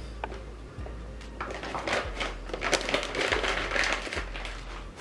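Crinkling and rustling of the paper-and-plastic wrapping of a takeaway nasi padang packet being handled and opened, busiest from about a second and a half in, over a low steady hum.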